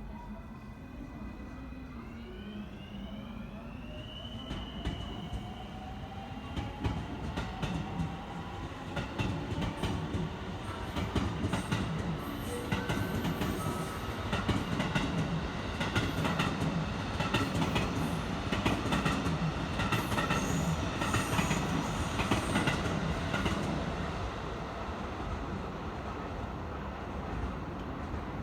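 Electric train passing: its motor whine rises in pitch over the first five seconds as it accelerates. Then the wheels clatter over rail joints with a low rumble, loudest in the middle, and ease off after about 24 seconds.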